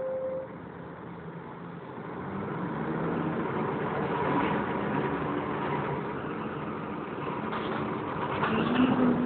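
Volvo B10BLE bus engine and cooling fan running, heard from inside the Wright Renown's saloon. The sound grows louder about two seconds in and carries a faint whine.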